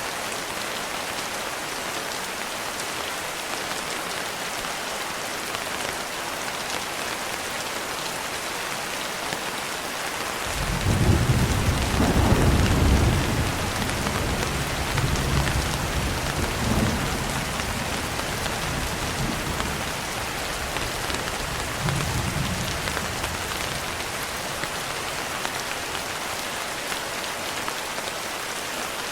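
Steady rain pattering on a window, with a roll of thunder that starts about a third of the way in. The thunder is loudest in its first couple of seconds, then rumbles on in smaller swells and fades out over about ten seconds.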